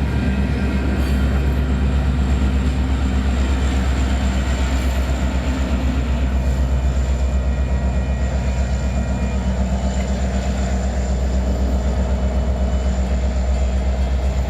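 Union Pacific double-stack intermodal freight train rolling past, a steady heavy rumble with a rapid regular rhythm of wheels on the rails.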